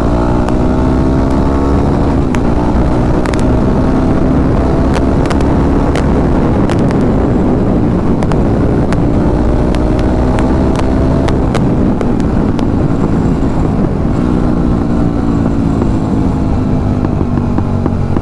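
Jawa 42 motorcycle with an aftermarket silencer revved hard while riding, its engine pitch rising and falling through the revs. Many sharp backfire pops crackle out of the exhaust, mostly in the middle stretch.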